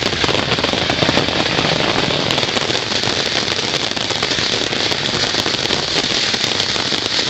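A lit ground firework burning with a dense, steady crackling hiss, without pauses or single bangs.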